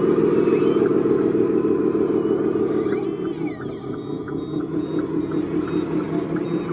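A radio-controlled construction machine running with a steady motor hum that eases down a little about three seconds in, with faint regular ticking after that.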